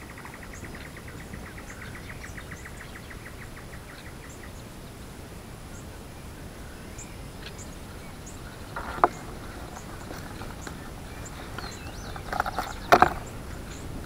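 Birds singing: a fast, evenly pulsed trill that slows as it fades out about four seconds in, with short high chirps scattered throughout. One sharp sound comes about nine seconds in, and a louder cluster of sharp sounds near the end.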